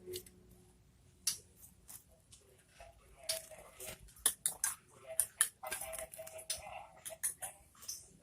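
Common iora bathing: an irregular run of short sharp clicks, sparse at first and coming thick and fast from about three seconds in.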